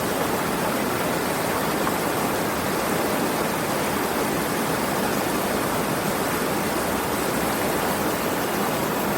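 Steady, unbroken rush of flowing water, like a stream or small waterfall, an even hiss without separate drips or splashes.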